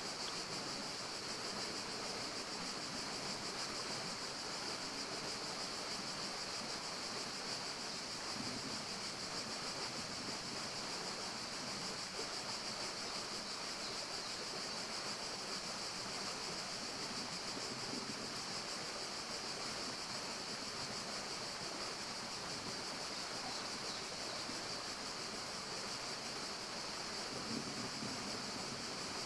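Steady forest ambience: an even rushing noise with a constant high hiss on top, unchanging throughout.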